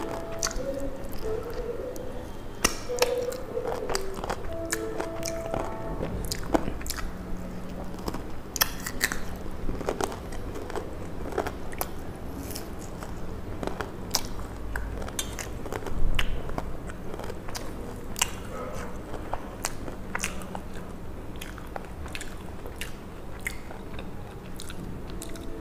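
A person chewing and biting food close to the microphone during a mukbang meal, with many short, sharp mouth clicks and smacks. Soft background music plays under it for the first few seconds.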